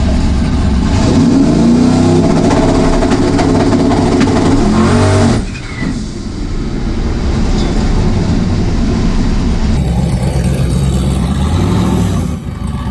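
Turbocharged Camaro drag car's engine at full throttle, its pitch climbing steadily for about four seconds, then cutting off abruptly about five seconds in. A steadier, lower engine sound follows.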